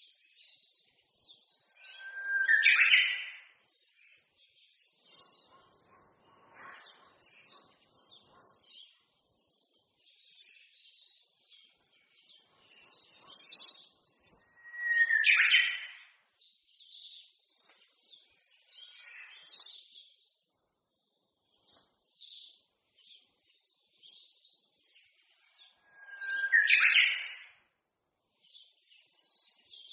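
Songbirds in a forest: one bird sings a loud, short song three times, about twelve seconds apart, each starting on a lower note and jumping higher, over a steady background of many small, high chirps from other birds.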